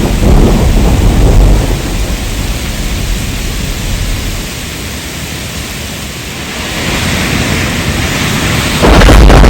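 Heavy rain with thunder: a deep rumble that dies away over the first two seconds into a steady rain hiss, which grows again toward the end. Just before the end a loud, deep rumbling noise comes in suddenly.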